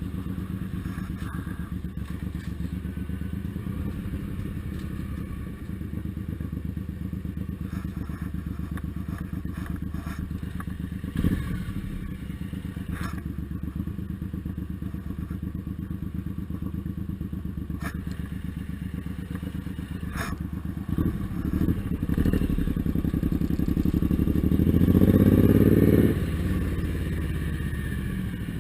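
Suzuki Intruder M1800R's V-twin engine running at a low, even pulse, with a few sharp clicks, then revving up for a couple of seconds near the end before easing off.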